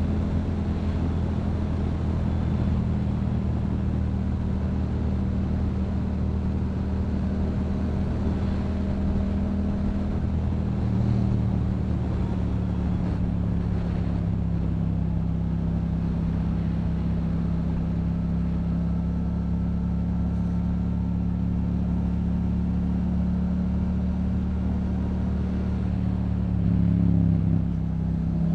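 Yamaha MT-07's parallel-twin engine through a Yoshimura aftermarket exhaust, running steadily at cruising speed, its pitch easing down slowly, with a brief louder burst of throttle near the end.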